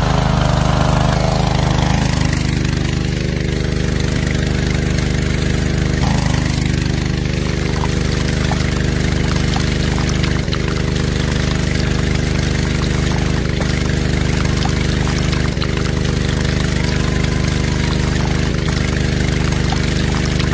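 Small motor of a homemade mini water pump running steadily with an even hum, a little rougher in the first couple of seconds.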